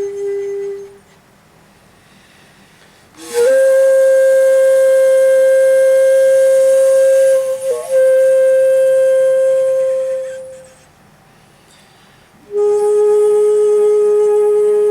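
Shakuhachi played in the komuso style: long, slow held notes separated by silent pauses. A held note dies away about a second in; about three seconds in a higher note enters with a slight upward slide and is held for about seven seconds, with a brief flicker midway, before fading out; after another pause a lower note begins near the end.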